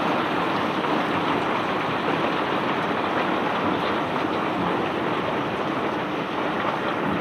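Bulk crushed rock pouring and rattling steadily during barge unloading, a dense continuous rushing clatter with no pauses. A faint steady machine hum runs underneath.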